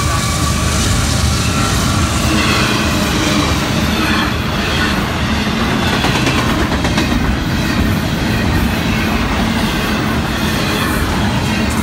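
Florida East Coast intermodal freight train passing close at speed. The trailing GE ES44C4 locomotive goes by at the start, then double-stack container well cars roll past with a steady, loud rumble of wheels on rail.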